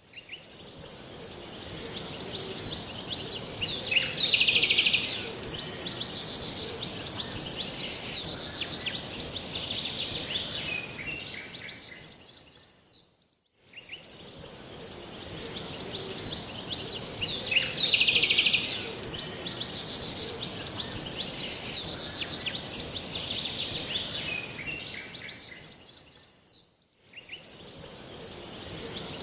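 Small birds chirping and singing over a steady high hiss, with a loud burst of chirping about four seconds in and again about eighteen seconds in. The recording is a short loop that fades out and back in about every thirteen seconds.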